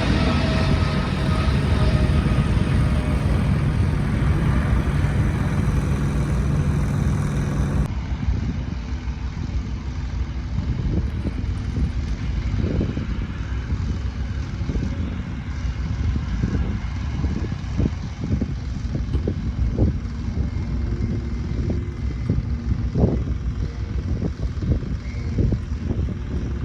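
Aircraft engines running loud with a falling whine, as from an aircraft moving past. About eight seconds in the sound cuts to a quieter low engine drone with wind buffeting the microphone.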